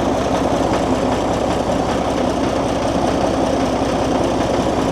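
Diesel locomotive engine idling steadily, with an even, rapid firing beat.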